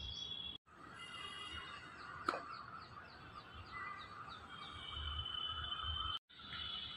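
Birds chirping in a run of short falling calls, over a steady high whine, with one sharp click about a third of the way in. The sound drops out briefly twice.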